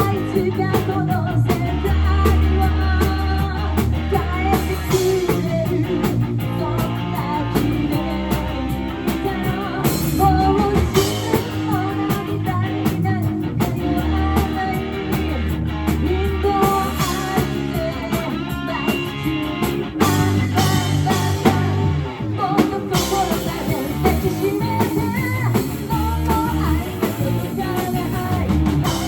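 A live rock band playing electric guitar, bass and drum kit, with a sung melody heard at times.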